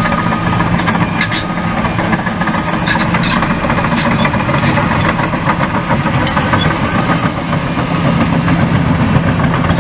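Heavy engine running steadily, with scattered sharp metallic clicks and clanks.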